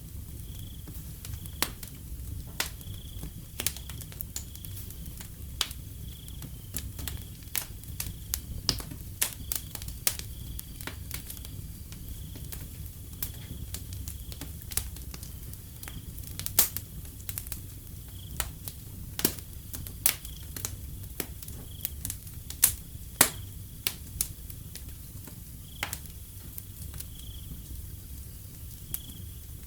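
Wood fire crackling with frequent sharp pops over a low rumble of flames, while a cricket chirps at an even pace in the background.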